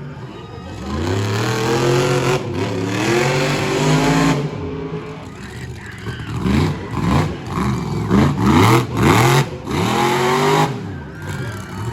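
Monster truck engine revving hard over and over, its pitch climbing and dropping in quick repeated sweeps, busiest in the second half.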